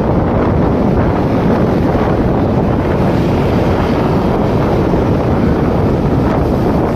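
Steady, loud wind buffeting on the microphone of a moving motorcycle, an even rushing noise that does not let up.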